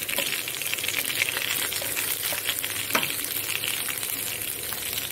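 Sliced onions, green chillies and ginger-garlic paste sizzling and crackling in hot oil in a kadai while a wooden spatula stirs them, with a couple of sharper knocks of the spatula against the pan.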